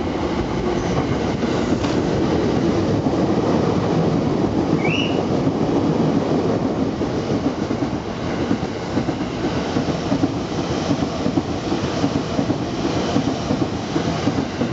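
Twelve-car JR East E259-series Narita Express electric train running through a station without stopping: a steady rumble of wheels on rail with rapid clatter over the rail joints as car after car goes by. A brief high squeal rises about five seconds in.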